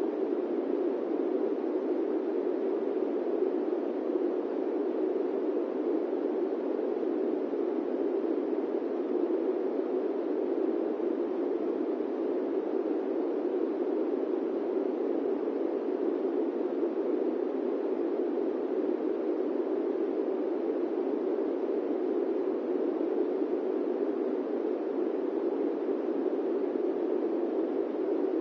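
Airplane-cabin white noise: a steady, even drone of noise centred in the low mids, without tones or events.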